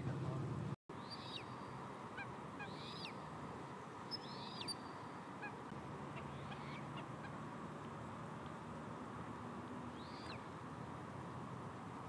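A bird calling: about five short, arched calls spaced irregularly, over a steady background hiss.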